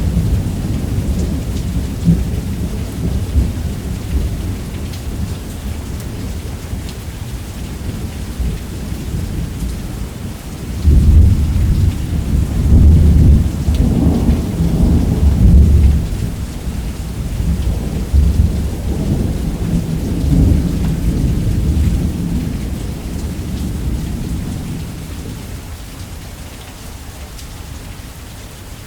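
Heavy rain falling steadily under rolling thunder. A low rumble at the start dies down, then a loud peal breaks in suddenly about a third of the way through, rolls on for several seconds and fades away near the end.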